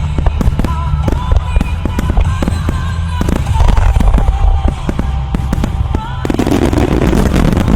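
Aerial fireworks shells bursting in rapid succession over show music, with a steady low rumble beneath. About six seconds in, a dense sizzling crackle takes over.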